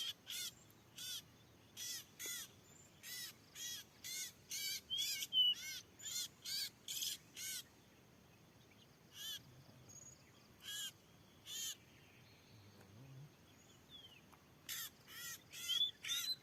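Oriental magpie-robin (kacer) giving short, harsh calls, about two a second at first, then a few single calls about halfway, then a quicker run again near the end. These are the aggressive calls of a magpie-robin answering a rival.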